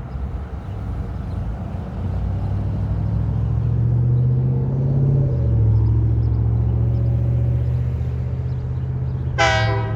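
Diesel locomotives running with a loud low drone as the train arrives; the engine pitch shifts about five seconds in. Near the end, a short blast of the locomotive horn.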